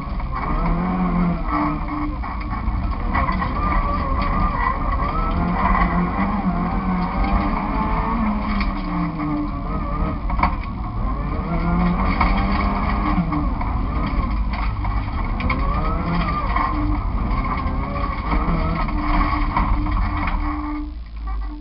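Nissan Micra 1.3's four-cylinder engine heard from inside the cabin, revving hard and repeatedly rising and falling in pitch as the car is driven flat out through an autoslalom course. Near the end the engine noise drops off sharply as the car slows.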